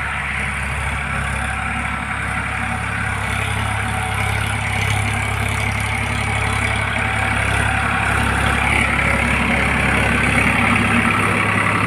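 Tractor engine running steadily, growing a little louder in the second half.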